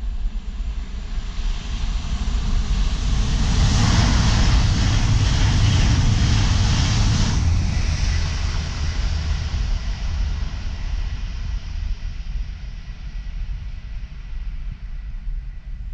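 PKP Intercity ED250 Pendolino high-speed electric train passing at speed: a rushing sound that builds over a couple of seconds, is loudest for about three seconds, then loses its hiss abruptly and fades as the train runs away.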